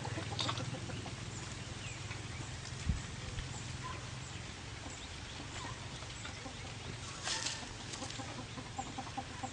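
Outdoor animal ambience: scattered short bird calls over a steady low hum, with a dull thump about three seconds in and a brief rustle about seven seconds in.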